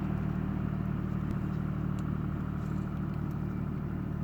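A steady low mechanical hum, with a few faint short ticks.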